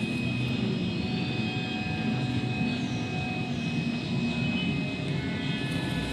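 A steady low rumble with a few faint, thin, high steady tones above it.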